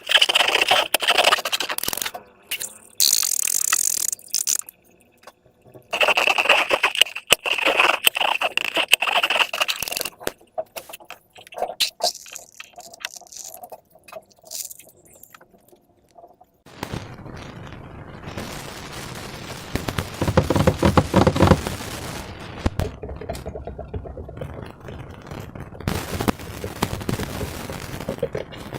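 Slime and balloon materials being worked by hand: bursts of crackly, squishing and scraping handling noise with scattered clicks and a couple of quiet pauses, then a longer stretch of steadier, fuller scraping and squishing from about halfway through.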